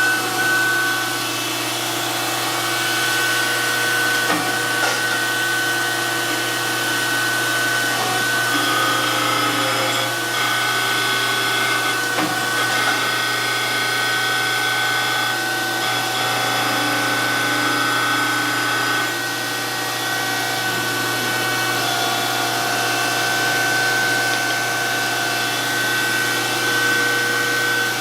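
DoAll 14-inch surface grinder running steadily: a constant high whine over a low motor hum, with tones that shift as the wheel works.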